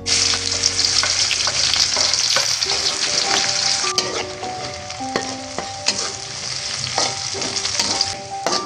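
Food frying in hot oil in a pan: a steady loud sizzle, broken by scattered clicks and scrapes of a utensil stirring it.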